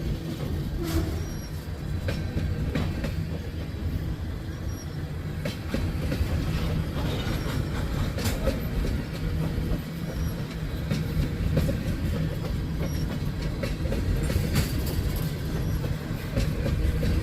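Long freight train rolling slowly past: a steady low rumble from the cars, with wheels clicking over rail joints at irregular intervals.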